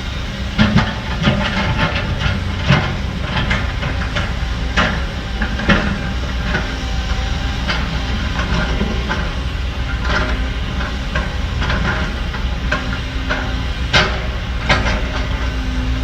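Heavy diesel earthmoving machinery running steadily, with repeated sharp clanks and clatters of metal and rock scattered through it.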